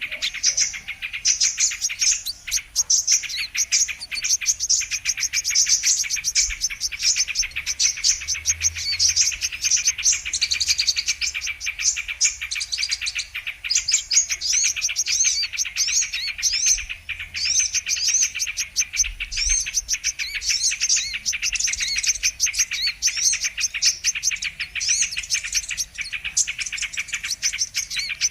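Brown-throated sunbird (kolibri kelapa) song, a rapid, nearly continuous stream of high chirps and twitters with many notes a second and only brief pauses.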